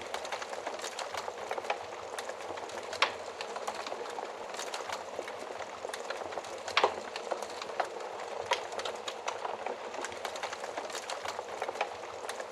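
Wood fire burning in an oven: a steady hiss of flames with frequent small crackles and a few louder pops.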